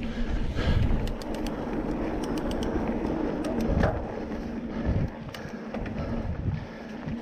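Mountain bike ridden over a dirt trail: an uneven rumble of tyres and wind on the microphone, with scattered sharp clicks and rattles from the bike, louder in the first few seconds.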